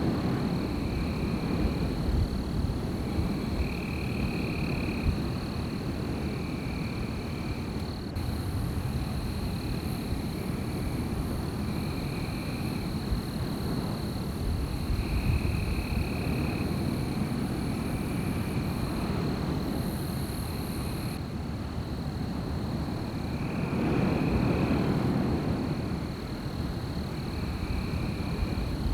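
Wind blowing through a night forest, a steady rushing with a low rumble that swells about three-quarters of the way through. Over it runs a continuous high-pitched drone, with short calls repeated every second or two, typical of night insects and frogs by a lake.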